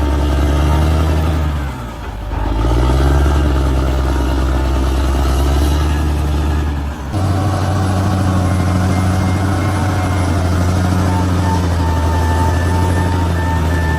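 Large bulldozer's diesel engine running under load. Its pitch sags and recovers about two seconds in, and the sound changes abruptly about halfway through.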